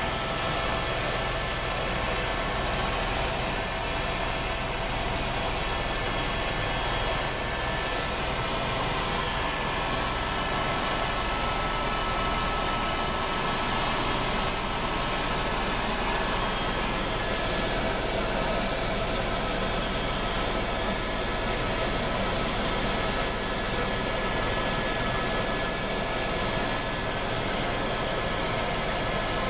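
Helicopter running steadily: an even rushing noise with faint steady high-pitched whining tones over it.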